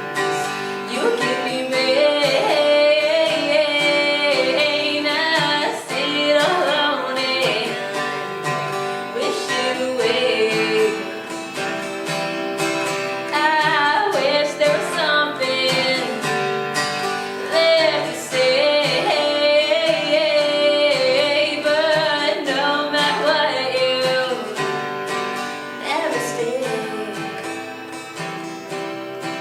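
A woman singing a song in sustained, gliding phrases to guitar accompaniment.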